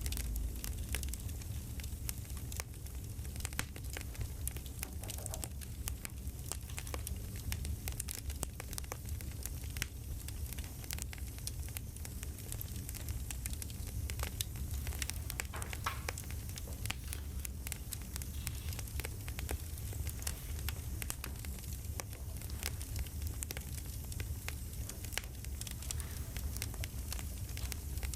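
Campfire crackling: a steady low rumble of burning wood with frequent small, irregular pops and snaps.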